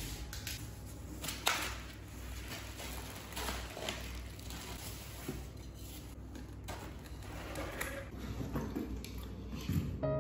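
Cardboard box being opened and a lamp unpacked from its foam packing: scattered rustles, scrapes and soft knocks of cardboard and foam being handled.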